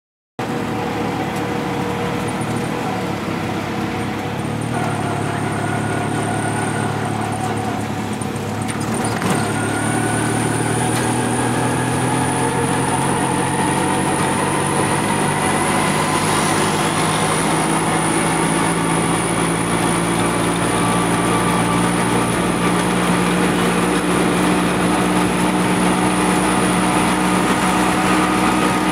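A vehicle engine running steadily with road traffic noise, with a thin high whine above it. The engine pitch rises slowly from about ten seconds in as the vehicle picks up speed.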